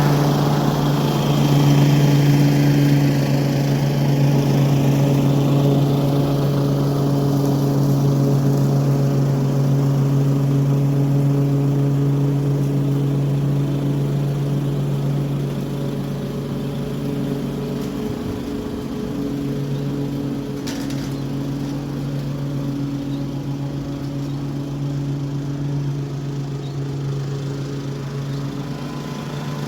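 Toro HDX 30-inch self-propelled mulching lawn mower running steadily under load while cutting grass, with an even engine drone that slowly grows a little quieter.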